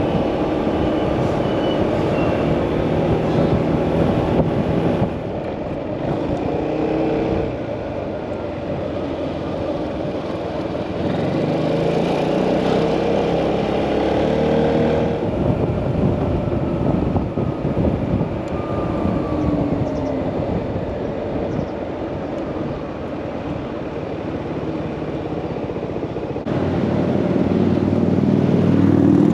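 Motorcycle engine running under way with wind and road noise. The engine pitch rises and falls with changing revs, and the level drops about five seconds in and rises again near the end.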